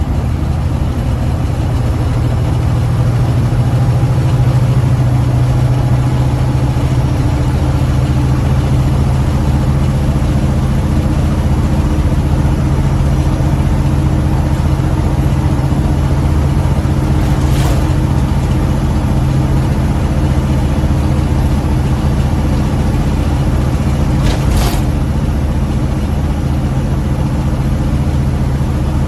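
Caterpillar diesel engine of a fully loaded Freightliner Classic truck running steadily under load, a little louder after the first few seconds. The engine is freshly rebuilt and still in its break-in period, and the truck is pulling slowly.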